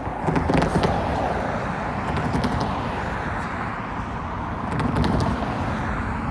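Freight train rolling past at a grade crossing: a steady rumble of cars with sharp wheel clacks over the rail joints and crossing, loudest about half a second in and again near five seconds.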